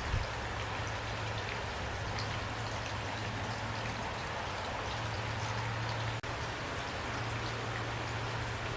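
Steady rain falling, with scattered individual drops ticking over the even hiss and a low steady rumble underneath. The sound drops out for an instant about six seconds in.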